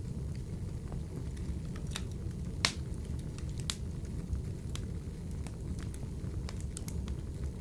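Wood fire burning in a wood-burning stove: a steady low rumble of flame with scattered crackles and pops, the loudest sharp pop a little under 3 seconds in.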